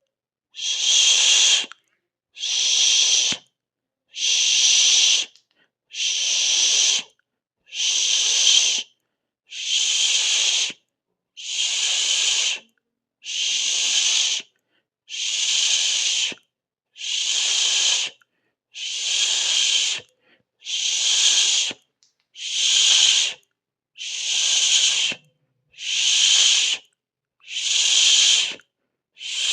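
A person hissing 'sssh' through the teeth in a steady rhythm. Each hiss lasts a little over a second, with a brief silent pause between them, about one every two seconds.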